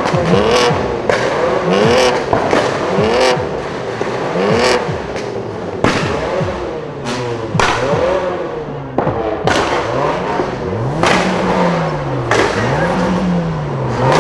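Modified car engine revved in quick blips. The pitch shoots up and drops back about once a second, with sharp exhaust pops and bangs in between. Near the end come two slower, longer revs.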